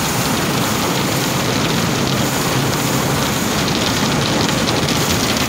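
Automatic car wash spraying water over the car, heard from inside the cabin: a loud, steady rush of spray, with a fine rapid pattering against the body in the second half.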